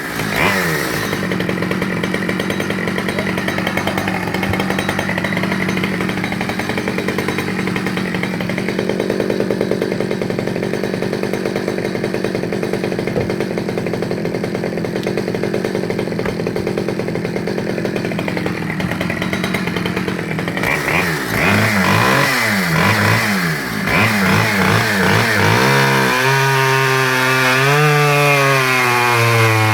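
Stihl 010AV 37cc two-stroke chainsaw running at high revs and held down under load, cutting through a log, for about the first twenty seconds. About two-thirds of the way in the engine comes off the cut, its pitch swinging up and down as the throttle is worked, then holds high and steady near the end.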